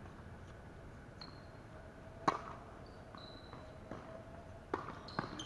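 Tennis ball struck by racket, a sharp pop a little over two seconds in and another near the end, with a few faint high squeaks between.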